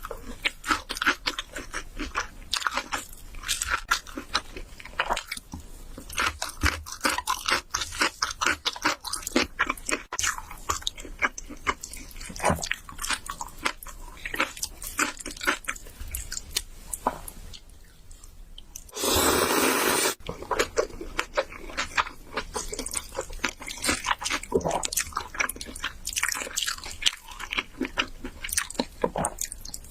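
Close-miked eating sounds: rapid wet chewing and crunching. About two-thirds of the way through, a loud rush of noise lasts about a second.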